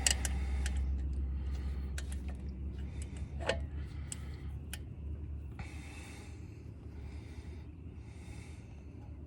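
Small metal clicks and ticks of bolts being handled and started into a tractor's drive-shaft mounting. In the second half, a person's breathing comes in several breaths of about a second each, over a steady low hum.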